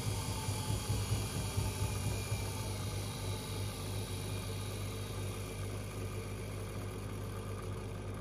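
Washing machine running: a steady low hum under an even whirring noise, the low rumble easing slightly about three seconds in.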